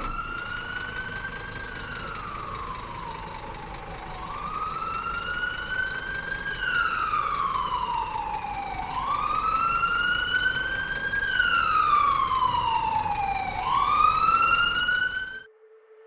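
Fire-engine wail siren, its pitch rising and falling in slow sweeps about every four and a half seconds, three full cycles and a last rise. It grows louder and then cuts off suddenly near the end.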